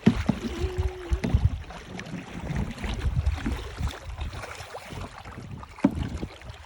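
Wind buffeting the microphone on a moving canoe, a rumbling low noise that rises and falls, with scattered knocks and a sharper knock near the end.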